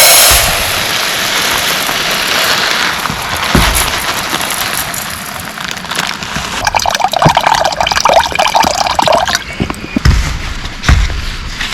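Water pouring and splashing, strongest for a couple of seconds just past the middle, with a few dull knocks.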